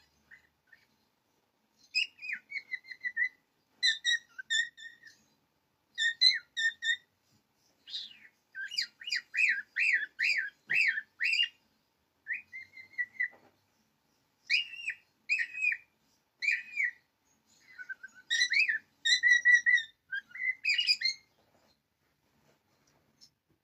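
Bird-like whistled chirps in short phrases with brief gaps, including a fast up-and-down trill about nine to eleven seconds in.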